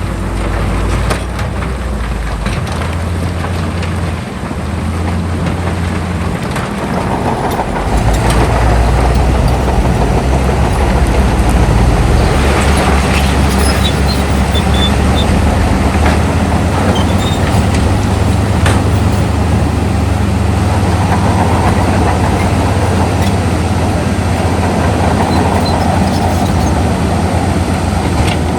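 Heavy diesel earthmoving machinery running under load, growing louder and busier about seven seconds in.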